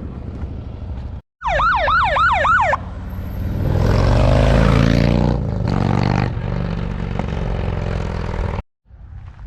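An engine running, then a sudden cut to a brief siren wailing rapidly up and down about four times a second. After that comes a loud engine revving up and settling, ending in an abrupt cut.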